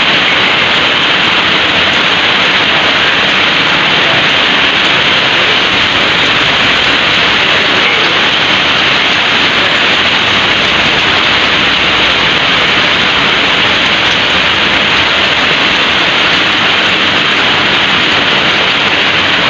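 Heavy rain falling, a loud, steady hiss with no breaks.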